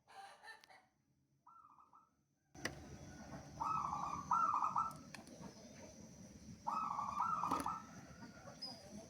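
Zebra dove (local perkutut) cooing: after a near-silent start with one faint short phrase, two phrases of quick, rippling coo notes, the first about three and a half seconds in and the second about a second and a half long near the end.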